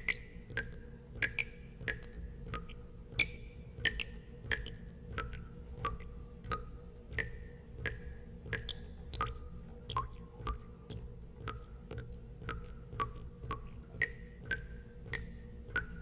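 Water drops plinking into water one after another, about one and a half a second, each a short click with a brief pitched ring, the pitch changing from drop to drop. A steady low hum lies underneath.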